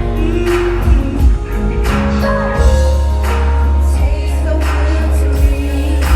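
Live R&B concert music with singing over a heavy bass line and a steady drum beat, loud through a venue's PA.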